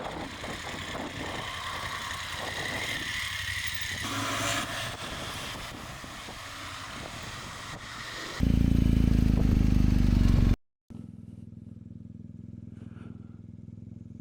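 Motorcycle on the move: engine running under wind and road noise. Past the middle comes about two seconds of loud low rumble, then a brief cut to silence, then a steadier, quieter engine hum.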